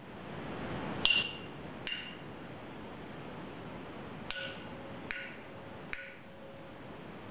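Five light clinks of a small hard object being tapped, each with a brief bright ring: two about a second apart, then three more close together a couple of seconds later, over a steady hiss.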